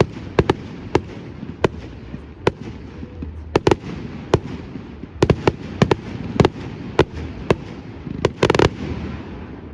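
Fireworks display: aerial shells bursting in a string of sharp bangs at irregular intervals, with a quick rapid-fire cluster of bangs near the end.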